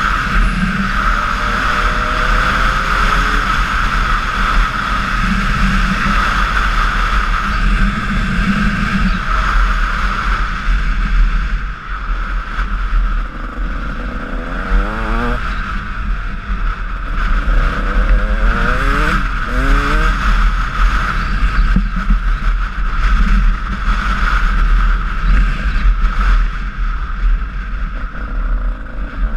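Honda CR125 two-stroke motocross bike engine being ridden, revving up and down, with several rising climbs in pitch as it accelerates through the gears, over a steady low rumble.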